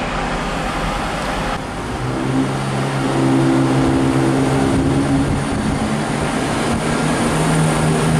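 Train at a station platform: a noisy rail rumble, then from about two seconds in a louder steady low drone of several tones from the train's power unit, which shifts to a lower pitch near the end.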